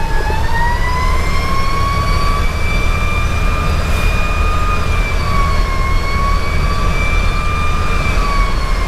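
Federal Q2B mechanical siren wailing with a slow rise and fall in pitch, over the steady low rumble of the fire engine's diesel and road noise, heard from inside the cab.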